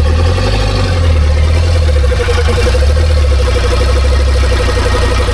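Old camper van's diesel engine running steadily just after it has started, with a fast, even pulse.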